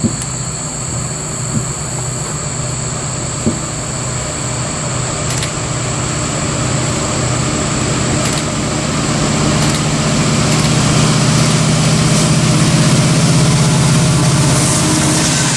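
Norfolk Southern freight train's diesel locomotive engines running with a steady low drone that grows louder through the second half, with a few faint clicks.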